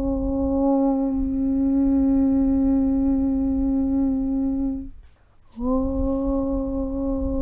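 A voice humming a long, steady 'Aum' on one low note. It breaks off for about half a second about five seconds in, then a new 'Aum' begins, its pitch sliding up slightly as it settles onto the same note.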